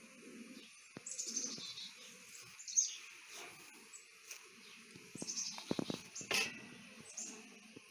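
Honey bees buzzing around an open hive, with a bird's high chirping calls every second or two. A few sharp clicks come about two thirds of the way through.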